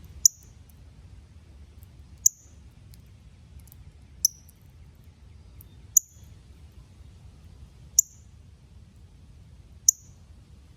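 Northern cardinal giving sharp, high chip notes, six of them spaced about two seconds apart.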